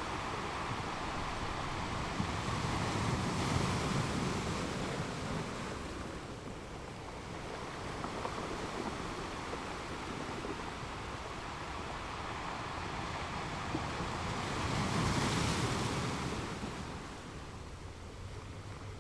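Ocean surf washing onto a shore: a continuous hiss of breaking water that swells twice, once a few seconds in and again, more strongly, about three-quarters of the way through.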